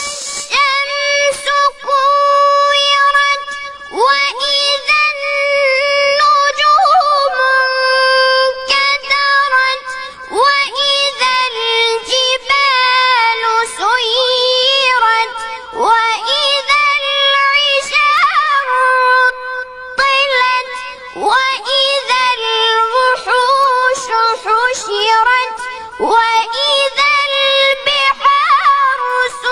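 Melodic Quran recitation (tajweed) by a single high-pitched voice, chanting long, ornamented held notes that waver and slide in pitch, in phrases broken by short breaths.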